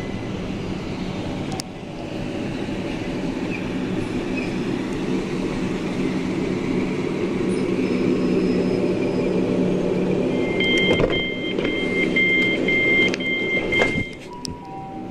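Southern Class 377 electric train with its steady running hum. About ten seconds in, a string of two-tone door warning beeps sounds for some three seconds, ending with a knock as the doors move.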